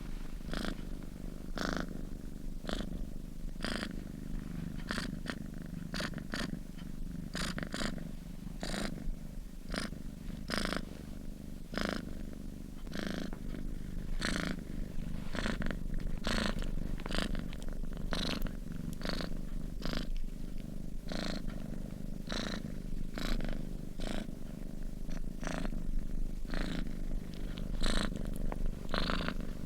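Sleeping domestic cat purring steadily: a continuous low rumble with a breathy rasp on each breath, roughly once a second.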